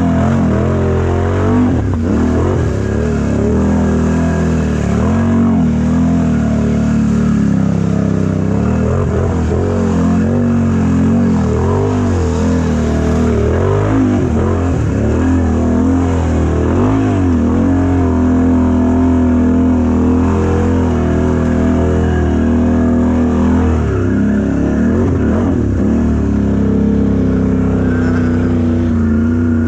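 Mega truck's engine revving up and down over and over, its pitch rising and falling every second or two, under load in deep mud.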